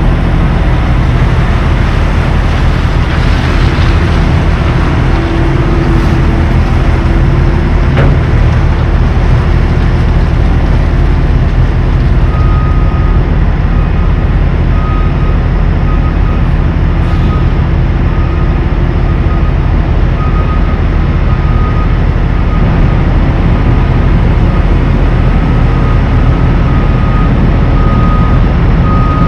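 Tractor-trailer truck on the road: steady engine drone and road noise. A faint high whine comes and goes from about halfway through.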